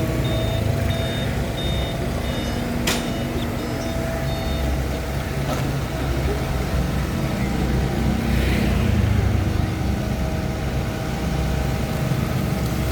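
Excavator's engine running steadily. For the first four or five seconds its travel alarm beeps about one and a half times a second, and there is one sharp click about three seconds in.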